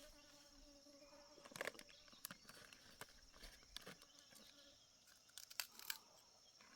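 Faint steady high insect trill with scattered sharp crackles and rustles, loudest about a second and a half in and again near the end.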